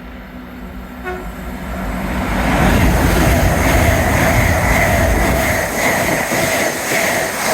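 A train passing through the station at speed, with loud rumble and wheel noise building up over about two seconds and holding. A brief horn toot sounds about a second in.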